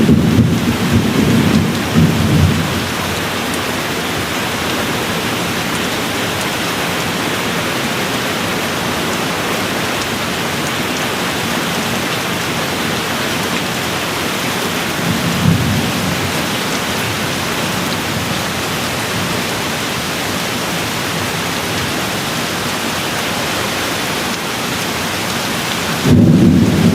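Steady rain falling, an even hiss, with low rumbles of thunder at the start, once briefly about halfway through, and again near the end.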